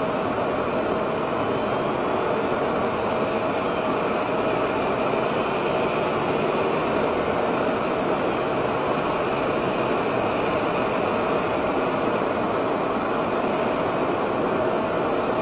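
Steady running noise of a moving car, engine and tyres on the road, with a faint constant hum and no impact.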